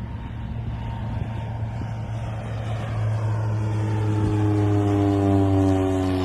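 Airliner engine noise during the landing approach, heard from the cabin: a steady low drone, joined about three seconds in by a layered whine that slowly falls in pitch.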